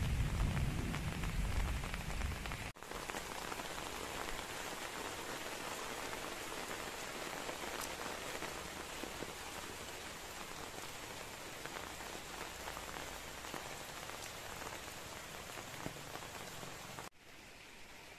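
Steady rain falling, an even hiss of drops on surfaces, with a heavy low rumble over the first few seconds. It cuts off abruptly near the end and comes back quieter.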